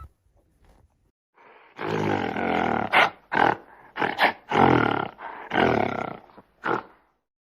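A big cat roaring in a run of about seven rough calls, some long and some short, starting about two seconds in.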